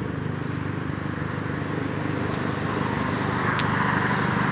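A motor vehicle's engine running steadily with an even pulsing, growing a little louder and joined by a hiss about halfway through.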